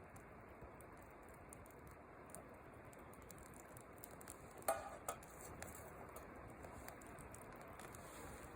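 Faint scattered small clicks and ticks over a low steady hiss. About halfway through comes one sharper clink with a brief ring, then a smaller knock just after.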